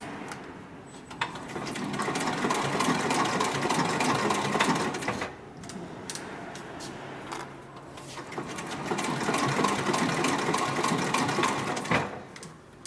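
Hightex 7204-MD heavy-duty industrial sewing machine stitching thick leather, in two runs of several seconds each with a short pause about halfway through.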